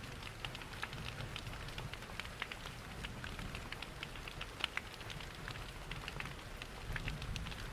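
Steady rain mixed with a crackling fireplace: many small, irregular crackles and pops over an even hiss and a low rumble.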